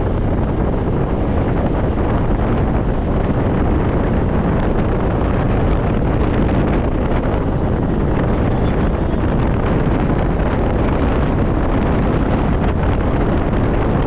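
Steady wind noise blasting the microphone while riding a scooter, with the scooter's running noise underneath.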